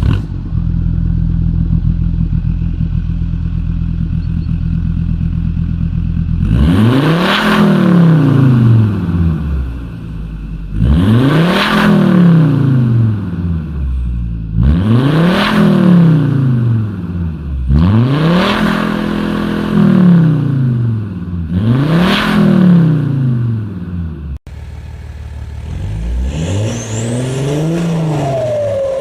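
Diesel car engine idling steadily, then revved five times in a row, each rev climbing and dropping back to idle. After an abrupt cut, another diesel engine idles and is blipped in shorter revs.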